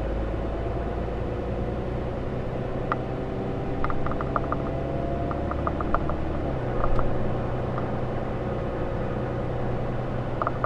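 2013 Ram 3500's 6.7-litre Cummins inline-six turbo diesel running under way, a steady drone whose pitch slowly climbs and then drops back about six and a half seconds in. Faint scattered ticks sound over it.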